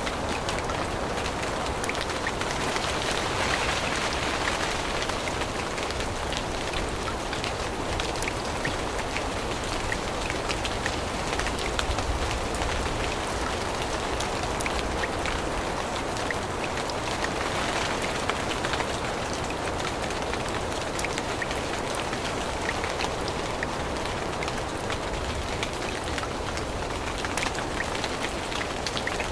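Steady rain falling through a forest, with many separate drops ticking close by.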